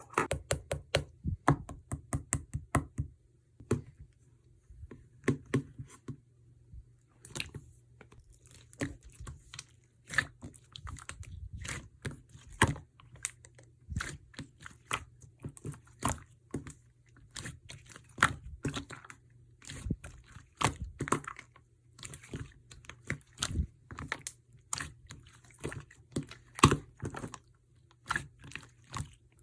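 Slime being squeezed and pressed by hand, giving a run of sharp, irregular clicks and pops, with a short lull about four seconds in. A faint steady low hum runs underneath.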